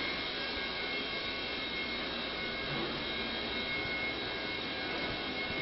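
Steady mechanical whir with a thin high whine running evenly through.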